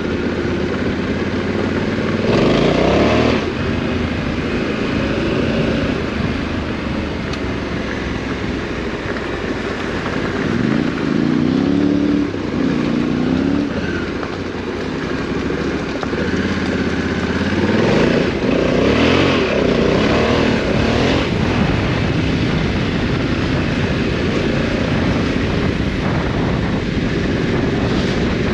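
Parallel-twin adventure motorcycle engine being ridden off-road, revving up and down with the throttle. The pitch climbs sharply about two seconds in and again past the middle, and dips and wavers in between.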